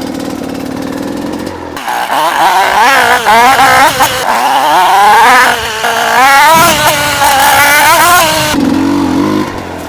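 Gas Gas EC250 single-cylinder two-stroke enduro engine, first running low, then revved hard about two seconds in, its pitch climbing and falling over and over, before it drops back to a low note near the end.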